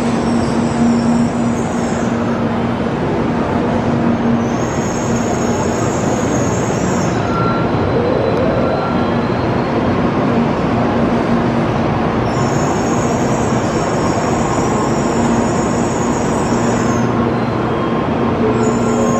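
Shinkansen train running slowly alongside the platform as it comes in to stop: a steady rumble of wheels and running gear over a low hum, with a high-pitched squeal that comes and goes four or five times.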